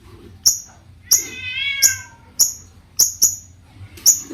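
Long-tailed shrike (cendet) singing: a series of sharp, very high chips about every half second, with a falling, cat-like mewing phrase about a second in.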